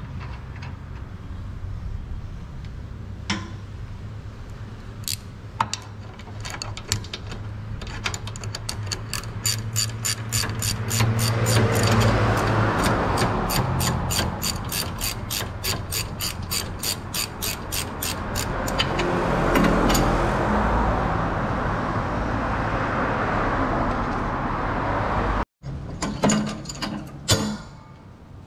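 Hand ratchet wrench clicking in a long, even run of a few clicks a second, with scattered metal knocks before and after.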